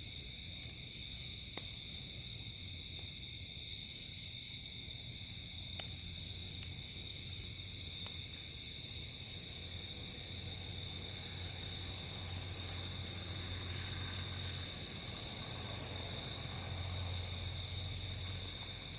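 A steady chorus of crickets trilling, with a higher insect buzz that comes and goes about every four to five seconds. A few faint pops from a crackling campfire are heard now and then.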